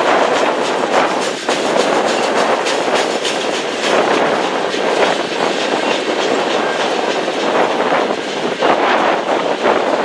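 Freight train of covered hopper cars rolling past at steady speed: a continuous rumble and rattle of the cars, with many sharp clicks and clatter from the wheels on the rails.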